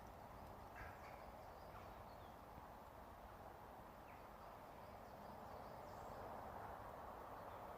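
Near silence: faint outdoor ambience with a few brief, faint bird chirps.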